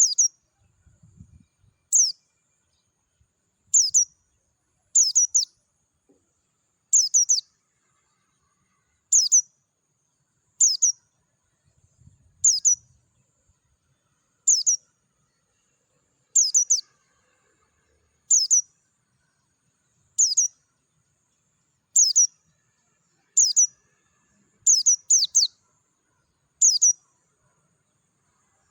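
A pleci dakun white-eye calling: short, high, falling notes, one every second or two, some given as quick doubles.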